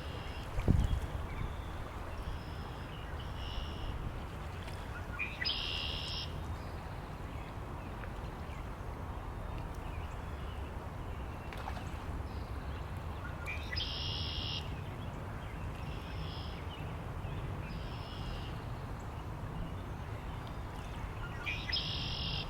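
Birds calling over a steady low wind rumble. One bird gives a short, loud call three times, about eight seconds apart, and softer chirps come in between.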